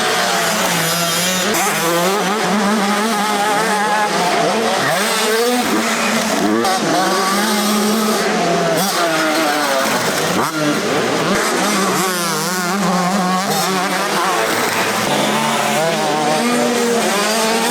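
Several motocross motorcycles racing on a dirt track, their engines revving up and down and overlapping as the riders go through gear changes and corners.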